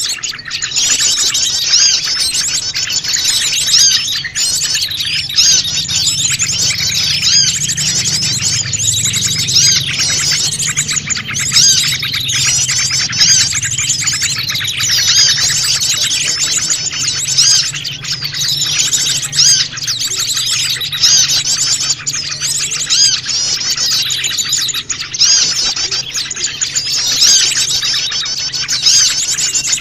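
A dense, noisy chorus of many small wild birds chirping and twittering over one another without a break: a mixed small-bird lure call used to draw wild birds in.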